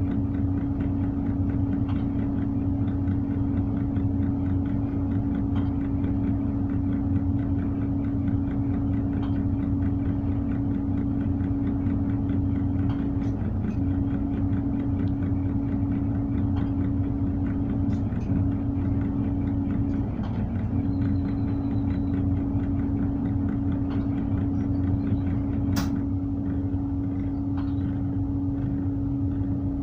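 Tugboat's diesel engine running at idle: a steady low drone with a constant humming tone that drops out briefly a few times. There is a single sharp click near the end.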